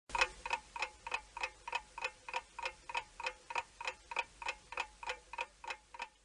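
Mechanical clock ticking briskly and evenly, about three sharp metallic ticks a second.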